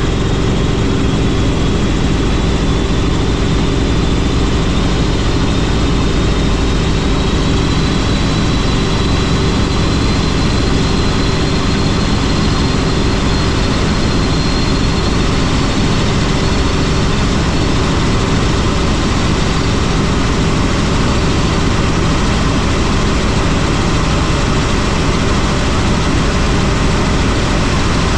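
Helicopter in flight: a steady, loud rotor and engine noise, with a faint high whine that creeps slightly upward in pitch over the first half.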